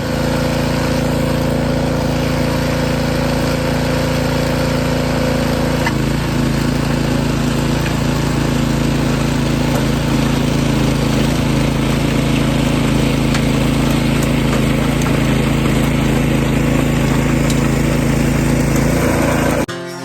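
Small gasoline engine running steadily, its note shifting about six seconds in; it cuts off sharply just before the end.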